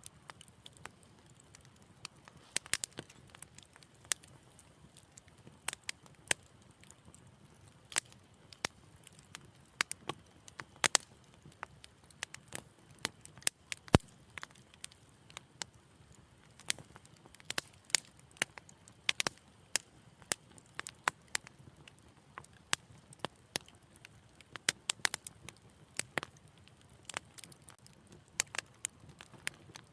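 Wood fire crackling softly, with irregular small snaps and pops, several a second, and one sharper snap about halfway through, over a faint low rush.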